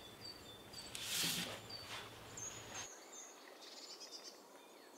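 Faint dawn birdsong: small birds giving short, high chirps over and over. About a second in there is a brief soft brushing sound.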